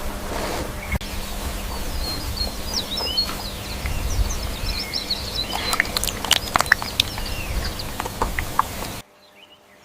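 Birds chirping over a steady low rumble, with a handful of sharp clicks in the second half; the sound cuts off suddenly about nine seconds in.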